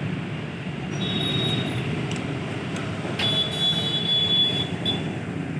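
A vehicle running with a steady low rumble. A thin high squeal comes briefly about a second in, then again for over a second about three seconds in.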